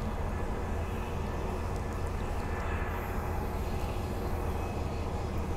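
Bombardier B-series electric train running between stations, heard from inside the carriage: a steady rolling noise over a low hum.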